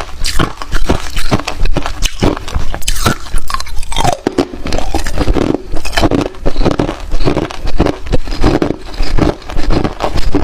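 Hard clear ice being bitten and chewed, with loud, rapid, repeated crunches and cracks as the ice breaks between the teeth.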